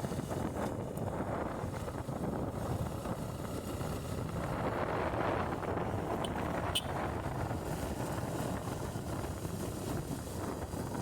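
Wind rushing over the microphone with steady engine and road noise from a motorcycle riding along.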